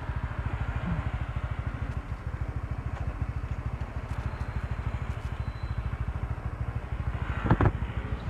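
A single-cylinder motorcycle engine, likely the Honda CBR150R's, idling with a steady, even low pulse of about a dozen beats a second. There is a brief louder sound about seven and a half seconds in.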